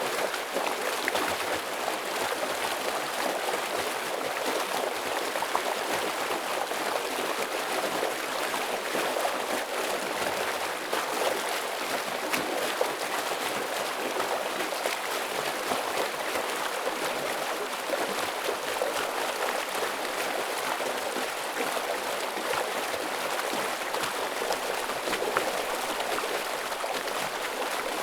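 A forest stream flowing heavily: a steady rush of water with constant fine splashing and gurgling over rocks.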